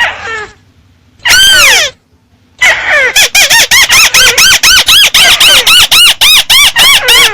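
Call of the bird known in Vietnamese as chim mắt xéo, amplified and loud: one long note falling in pitch about a second in, then, from just before three seconds, a fast run of short rising-and-falling notes, about three a second.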